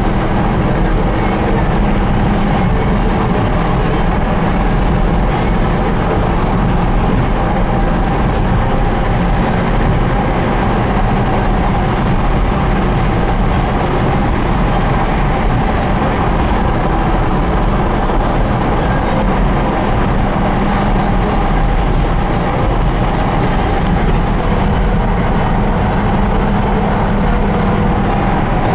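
1970 Ford Bronco on the move: a steady mix of engine and road noise.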